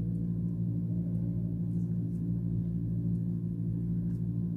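Steady low hum made of several held tones that never change, with a few faint small ticks over it.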